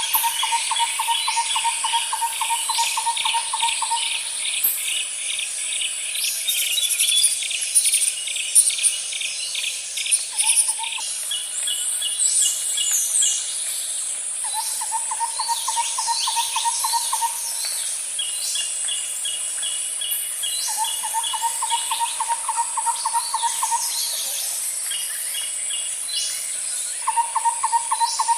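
Bird and insect chorus: a steady high insect buzz under a rapid low trill that comes in bouts of a few seconds with pauses, a faster high-pitched trill, and scattered quick bird chirps.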